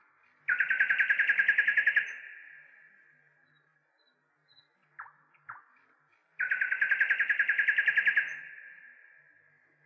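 A bird singing a fast, steady trill twice, each about a second and a half long with a ringing tail, and two short soft falling chirps between them.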